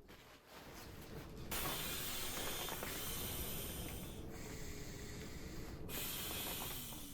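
Rustling of sleeping-bag fabric and bedding being handled, a steady hiss-like noise that starts about a second and a half in.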